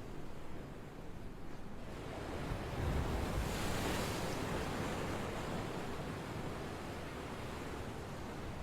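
A steady rushing noise that swells about three seconds in and then slowly eases off.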